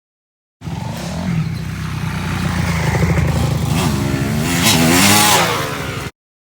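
Motorcycle engine running and being revved, its pitch climbing and falling several times, with the loudest revs near the end; it starts about half a second in and cuts off abruptly.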